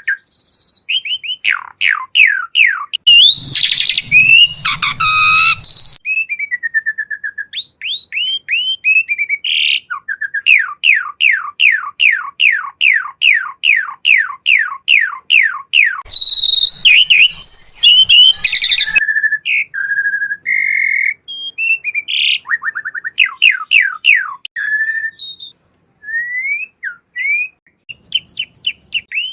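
Pied starling (jalak suren) singing loudly. Its song is a fast varied string of sharp downslurred whistles, runs of about three to four notes a second, mixed with a couple of harsh raspy passages.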